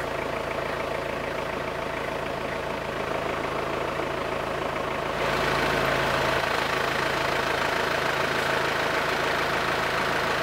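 Vehicle engine idling with a steady hum; about halfway through it becomes a little louder and brighter.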